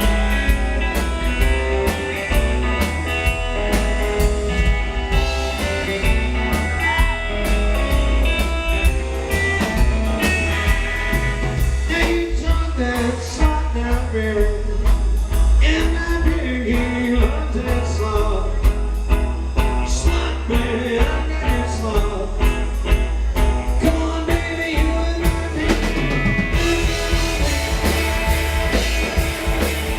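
Live rockabilly trio playing a fast rock and roll number: electric guitar over upright bass and a driving drum kit, with steady drum hits throughout.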